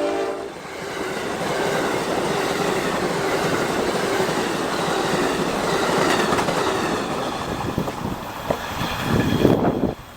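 Train running past on the rails, a steady noise of wheels and cars, with the end of its horn chord cutting off about half a second in. Near the end the low rumble swells and gets uneven.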